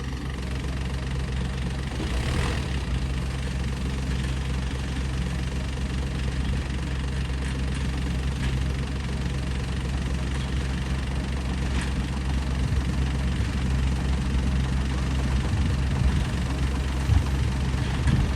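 Heavy diesel engine of earthmoving machinery running steadily at low revs, getting slightly louder in the second half.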